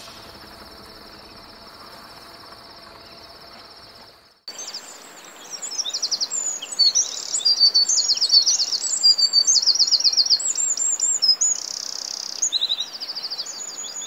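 A faint, steady, high-pitched trill that stops about four seconds in, followed by loud birdsong: many rapid chirps and trills, overlapping.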